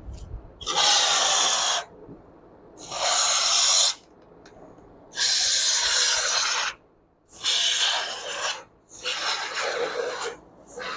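Aerosol can of expanding foam insulation spraying in five short hissing bursts, each lasting a second or so, as foam is squirted into a cavity.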